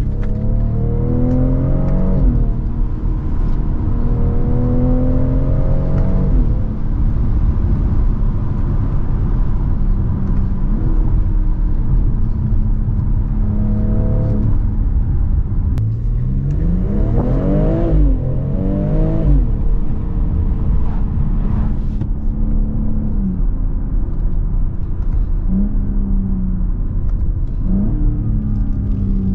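BMW X3 M40i's turbocharged 3.0-litre inline-six heard from inside the cabin under load, its revs climbing and falling again and again as it pulls and shifts. The biggest rise and drop in revs comes about 17 to 19 seconds in, over a steady low road rumble.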